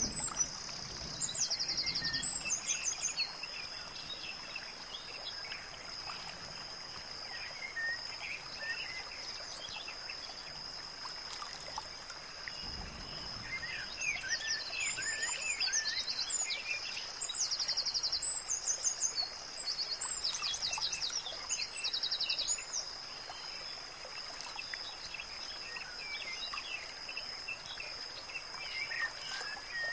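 Birds chirping and trilling in short, repeated phrases over a steady hiss, with a constant thin high-pitched whine behind them.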